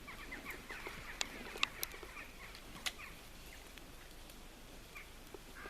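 Pigs eating pears: a few sharp crunches and clicks of biting into the fruit, with many short high squeaks and smacks in the first three seconds, then quieter chewing.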